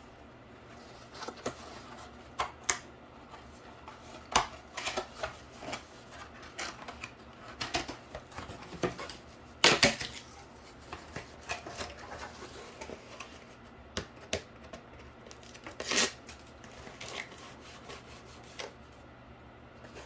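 Cardboard being handled and glued on a tabletop: irregular taps, scrapes and crinkles, loudest about ten seconds in and again near sixteen seconds.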